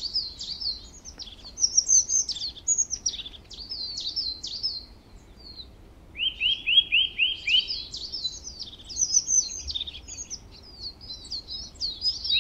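Birdsong: several small birds chirping and twittering high, with a run of about six quick falling notes about six seconds in.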